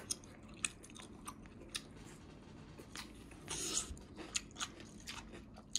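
Faint chewing with short crisp crunches, someone eating raw cucumber in a seasoned chive-and-cucumber salad, with scattered sharp clicks.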